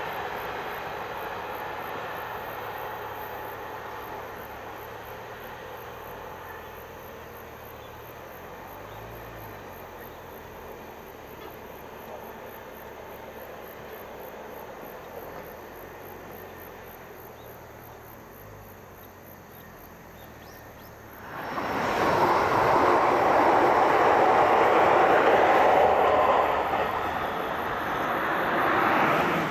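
A KiHa 40-series diesel railcar set running away along the line, its engine hum slowly fading. About 21 seconds in, an E653-series electric limited express takes over, suddenly much louder as it approaches and runs past, swelling again near the end.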